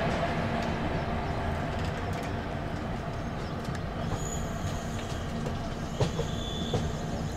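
Express passenger train with a steady rumble and hum. A brief faint high squeal comes about four seconds in and another near the end, with a couple of light knocks.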